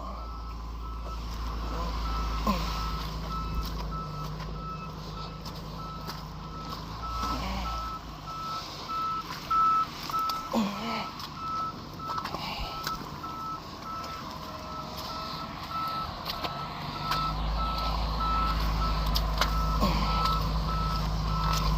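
Tow truck's warning beeper sounding a steady run of evenly spaced beeps over the truck's engine running. The engine drone drops away about eight seconds in and comes back up near the end.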